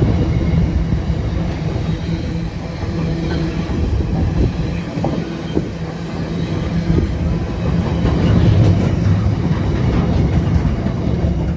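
A train running past at the platform, its wheels clattering over the rail joints in a steady rumble.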